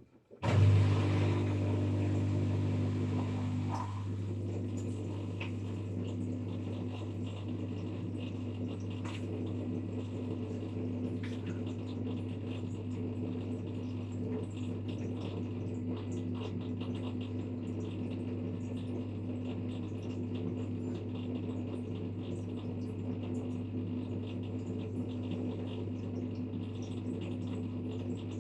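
A 5 kg LG washing machine running with a steady low electrical hum that switches on suddenly. The hum is louder for the first three seconds or so, then settles to an even level, with faint scattered ticks over it.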